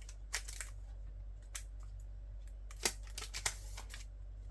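Hands handling merchandise packaging and cards: a few scattered light clicks and rustles, the sharpest a little under three seconds in, over a steady low hum.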